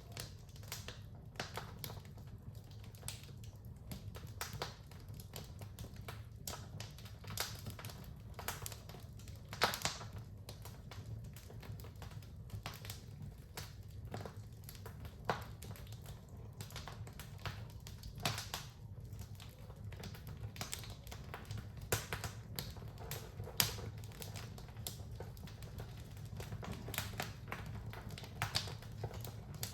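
Wood fire in a fireplace crackling, with irregular sharp snaps and occasional louder pops over a low steady rumble.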